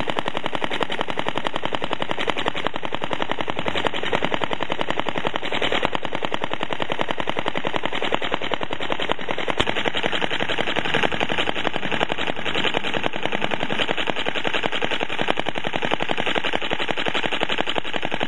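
Small barstock Otto four-stroke model engine with petrol-foam carburettor and piezo ignition running steadily. Its exhaust is a rapid, even stream of pops.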